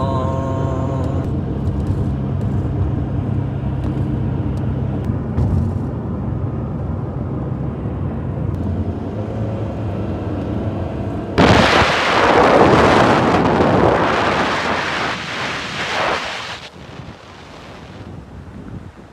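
Steady low rumble of a car driving, heard from inside the cabin. About eleven seconds in, a sudden loud rush of wind buffets the microphone for about five seconds, then dies down to a softer hiss.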